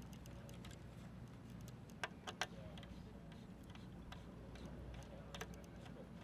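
Faint, scattered light clicks and ticks of tools and parts being handled during a mountain bike build, two close together about two seconds in and another near the end, over a low steady hum.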